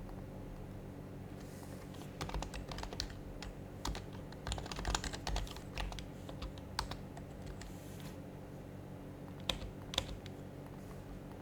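Typing on an HHKB Professional HYBRID Type-S keyboard with silenced Topre switches: a quick run of keystrokes starting about two seconds in and lasting about five seconds, then two single clicks about half a second apart near the end.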